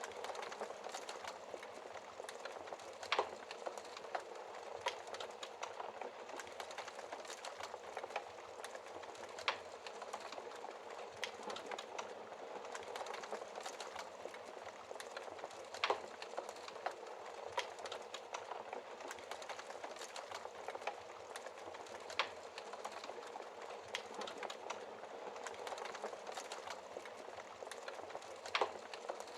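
Wood fire crackling in a fireplace: logs burning with a steady hiss and constant small crackles, broken by a few louder pops every several seconds.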